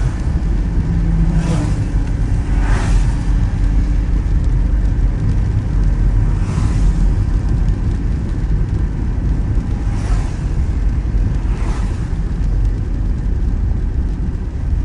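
Vehicle road noise: a steady, loud low rumble with brief whooshes every few seconds.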